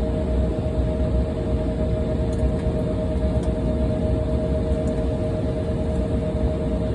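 Embraer 175's turbofan engines running steadily: a deep, even rumble with two steady whining tones above it.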